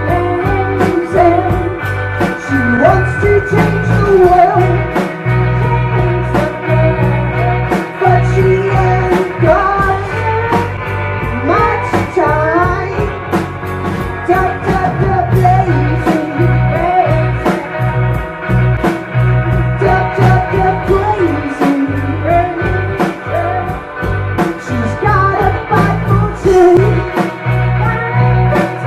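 Live rock band playing at full volume, with a steady drum beat under bending guitar lines.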